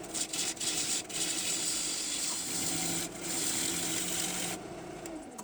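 A gouge cutting green maple on a spinning wood lathe: a steady hiss of shavings peeling off the bowl blank over the lathe's steady hum. The cut breaks off briefly about three seconds in, then stops about a second before the end.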